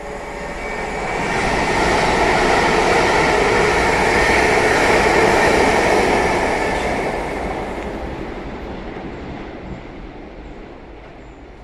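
Passenger train passing on the line, its rolling and rail noise building over the first couple of seconds, loudest around the middle, then fading away as it goes by.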